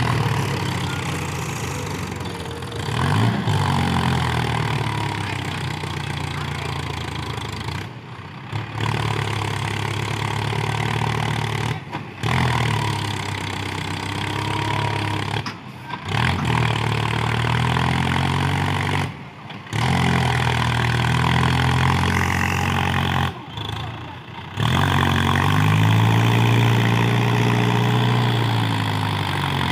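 Tractor engine running, its revs rising and falling, heard in several stretches separated by brief dropouts.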